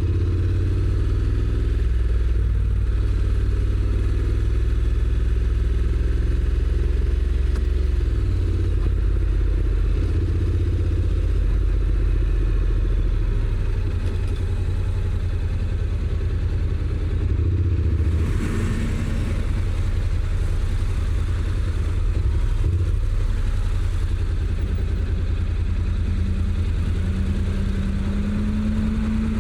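Honda NC750X's parallel-twin engine running through its stock exhaust while riding, with road and wind noise. The engine note changes pitch about eight seconds in, and a steady higher hum joins near the end.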